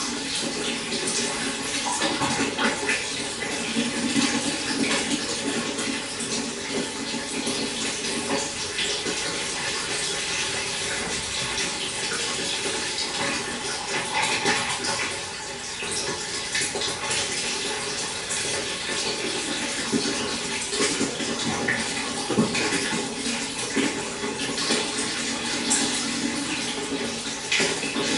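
Steady running water with many small splashes and trickles.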